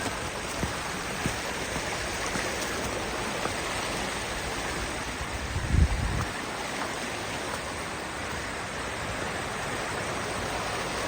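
Steady rushing of creek water and falls in the Kanarra canyon, with a brief low thump about six seconds in.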